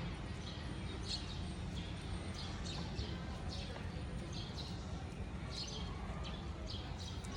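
Small birds chirping repeatedly, short falling chirps one or two a second, over a steady low background rumble.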